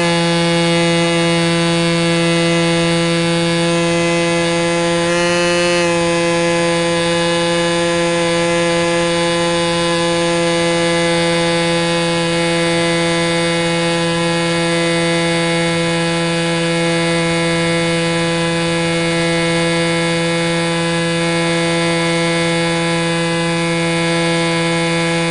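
Electric motor and propeller of an ST Models Cessna 182 RC plane, heard close from on board, whining steadily at an even pitch, with a slight waver about five seconds in.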